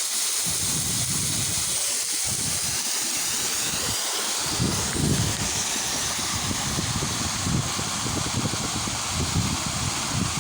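Steady rush of falling water from a waterfall, with uneven low rumbles from about halfway.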